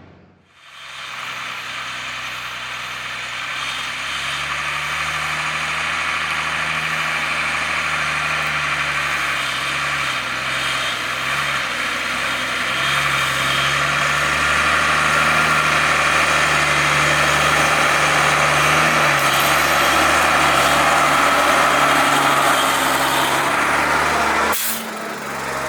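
The ex-army 1983 Mercedes Unimog U1700L's six-cylinder diesel engine running under load as the truck drives along a soft sand track, its pitch wavering slightly with the throttle over a steady rushing noise. The engine gradually grows louder through the first half, then holds steady, and cuts off briefly near the end.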